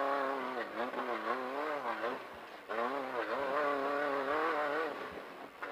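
Off-road race car engine revving, its pitch swinging up and down under changing throttle. The note drops briefly about two seconds in, then picks up again.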